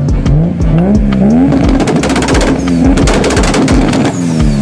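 Nissan Skyline GT-R's twin-turbo RB26DETT straight-six revved repeatedly at a standstill, the pitch climbing and falling with each blip. Its exhaust crackles and pops through the middle stretch of revs.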